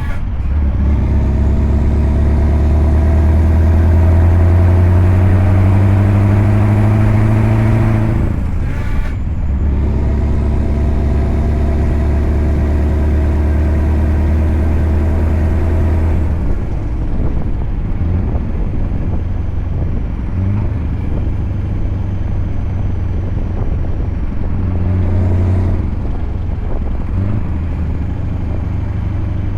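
Scania V8 diesel truck engine pulling under load, its note rising steadily, with a short break for a gear change about eight seconds in before it pulls and rises again. About sixteen seconds in it eases off to a lower, rougher rumble.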